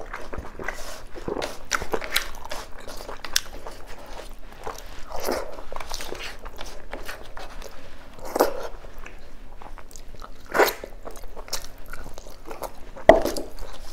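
Mukbang eating sounds: wet chewing, lip smacks and clicks as beef oxtail meat is bitten and pulled off the bone by hand, with a few louder smacks toward the end.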